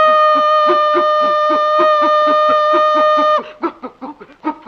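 Vocal imitation of a steam train: a long, steady whistle-like tone held for about three and a half seconds that cuts off suddenly. Under it runs a fast rhythmic 'kup kup' chant mimicking the chugging locomotive, three or four beats a second, which carries on after the whistle stops.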